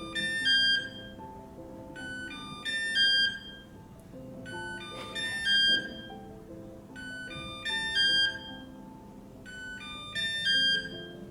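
Kyvol E20 robot vacuum beeping to show its location: a short burst of high electronic tones repeated about every two and a half seconds, five times. Soft background music runs underneath.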